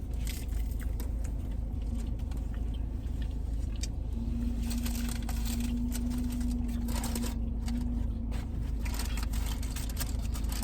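Car air conditioning running with a steady low hum, joined about four seconds in by a steady low-pitched tone, with scattered light clicks and rustles over it.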